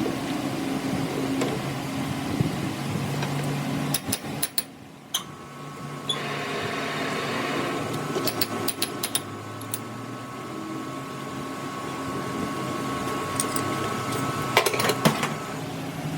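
A machine running steadily in a workshop, with sharp clicks and knocks in three clusters: about four seconds in, around nine seconds, and near the end.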